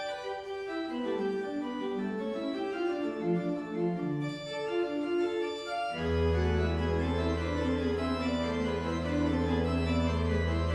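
Organ music, most likely the church organist's postlude: a line of moving notes, then about six seconds in a deep low pedal note and full held chords come in.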